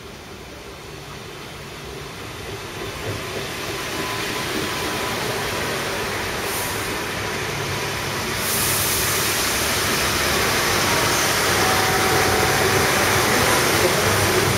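Israel Railways passenger train approaching and rolling past close by, its wheels running on the rails. The sound grows steadily louder, then jumps and grows brighter about eight seconds in as the coaches pass the microphone.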